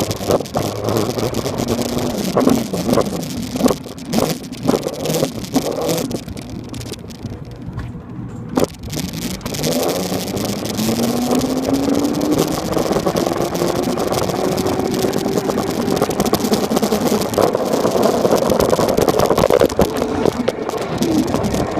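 Electric motor of a Razor dirt bike whining as it rides, its pitch rising steadily from about halfway through as the bike speeds up. Short knocks and rattles come through in the first half.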